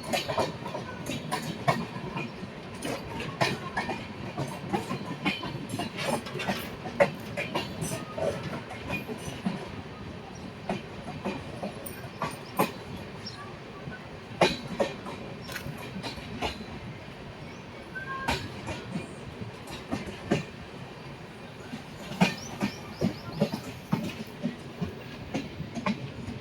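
Railway train wheels knocking over rail joints: a run of sharp, unevenly spaced clacks over a steady rumble.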